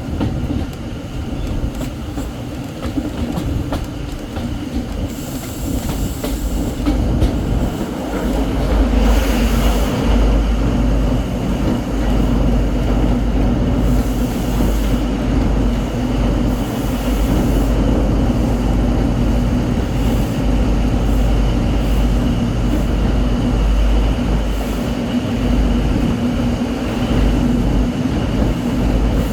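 Class 43 HST power car's diesel engine running under load, heard from a carriage behind it, with a deep rumble and a steady drone that grow louder about eight seconds in. Wheels run on the rails underneath, with occasional rail-joint knocks and a faint squeal.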